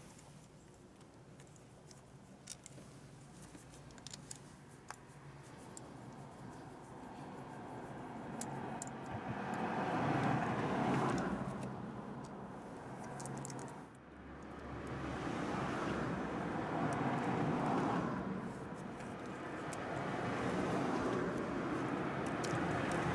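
Road vehicles passing one after another, their noise swelling and fading in several waves, with a few light clicks in the first seconds.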